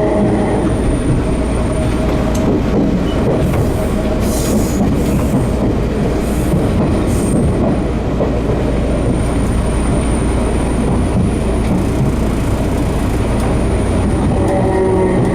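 Enshu Railway 30 series electric train running, heard from inside the car: a steady rumble of wheels on the rails, with a whine from the motors and gears at the start that fades out and comes back near the end.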